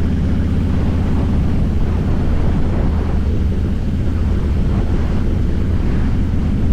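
Harley-Davidson Fat Boy's V-twin engine running steadily while riding at an even pace, with wind rushing over the microphone.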